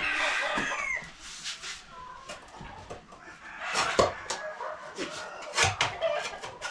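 Chickens squawking and clucking, with one loud wavering squawk in the first second, then scattered sharp knocks and clatter.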